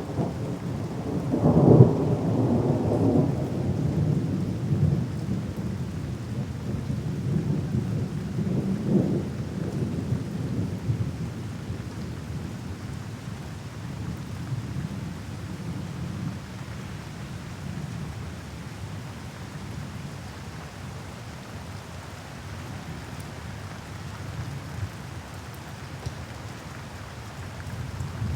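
Thunder rumbling over steady rain: a loud peal about two seconds in and another rumble around nine seconds, easing to mostly rain through the second half, with thunder building again at the very end.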